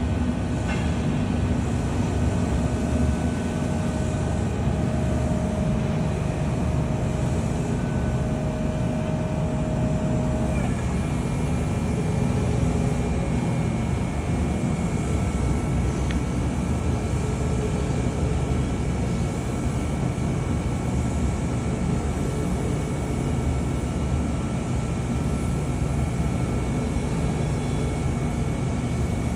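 Electric reach truck operating, its motors giving a steady low hum with thin whining tones; the whine changes pitch about ten seconds in.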